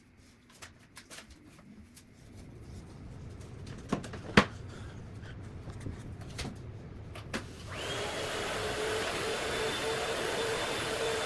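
Scattered knocks and clicks of things being handled, the loudest a sharp knock a little under halfway, then a vacuum cleaner switches on about three quarters in and runs steadily with a high whine. The audio is sped up to double speed.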